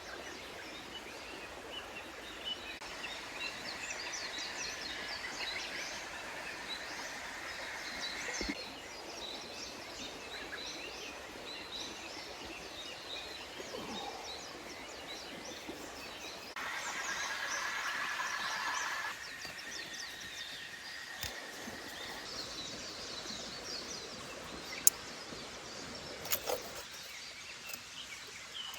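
Woodland birds chirping and singing over a steady rush of stream water, with a few sharp clicks near the end.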